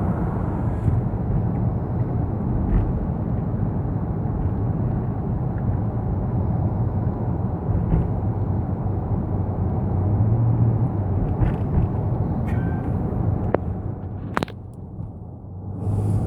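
Steady low road and engine rumble heard from inside a moving car's cabin, with a few faint clicks. About fourteen and a half seconds in there is a sharp click, and the rumble drops noticeably for a second or so before it comes back.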